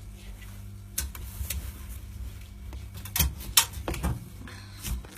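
A skunk stuck in a locked fridge, knocking and rattling against the door and its lock as it shifts about: a scatter of sharp clicks and knocks, loudest just past the middle, over a steady low hum.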